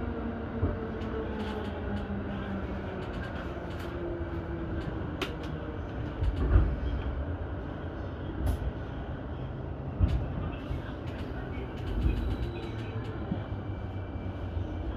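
Keihin-Tohoku Line electric commuter train running on the rails: steady rumble, with the motor whine falling in pitch in the first couple of seconds as it slows, and a few scattered thumps of the wheels over the track.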